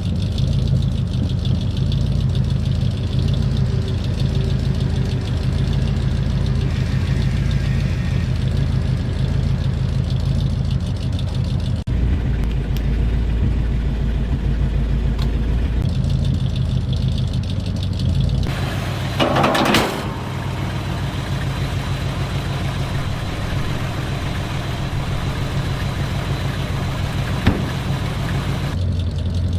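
The 1962 Ford Galaxie's V8 engine idling steadily, the running sound changing abruptly several times, with a brief louder rush of noise about two-thirds of the way through.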